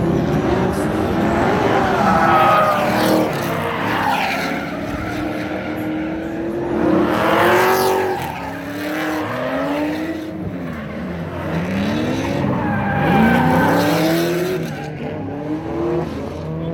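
Drift cars' engines revving up and down as they slide, with tyres skidding; a louder pass comes about eight seconds in.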